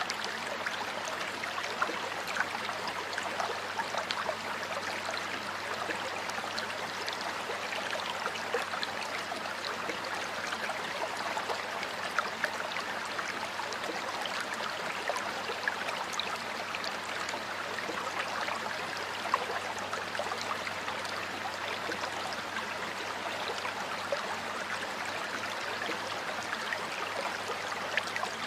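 Shallow river or stream water flowing steadily, with many small splashes and trickles.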